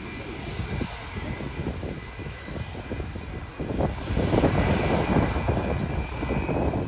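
Airliner engines rumbling as a plane passes, growing louder about four seconds in, with a steady high whine over the rumble.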